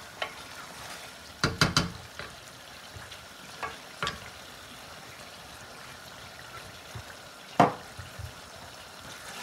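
Chicken pieces frying in oil in a steel pot with a steady low sizzle, while a wooden spoon stirs them and knocks against the pot: a quick cluster of knocks about a second and a half in, two more around four seconds, and the loudest single knock near the end.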